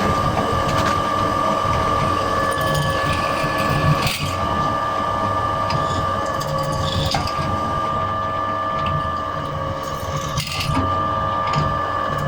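Electric drill running steadily with a constant motor whine while drilling holes through a metal flat bar, with brief knocks where it dips, about four seconds and ten seconds in.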